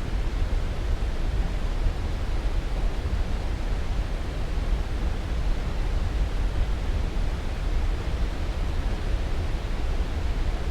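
Steady rushing noise with no change, strongest and deepest in the low end.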